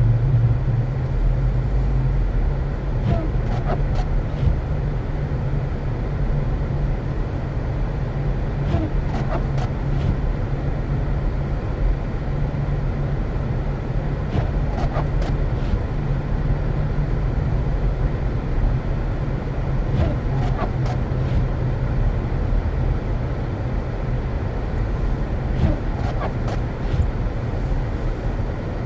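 Car driving on snowy streets: a steady low rumble of engine and road noise, with a few faint clicks and squeaks now and then.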